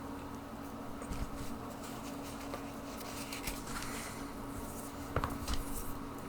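Faint scratching, rubbing and small ticks of tools and a model being handled on a workbench, over a steady low electrical hum.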